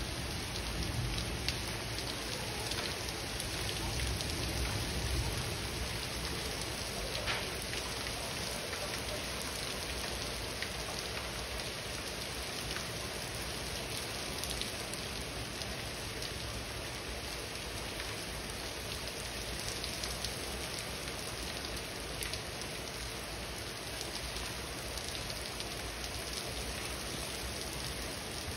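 Heavy rain falling steadily on a wet paved platform: a dense, even hiss with scattered sharper drop ticks. A low rumble underneath fades out over the first few seconds.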